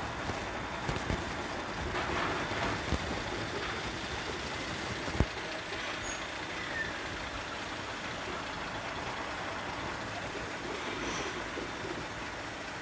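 Container truck running, a steady mix of engine and road noise, with one sharp knock about five seconds in.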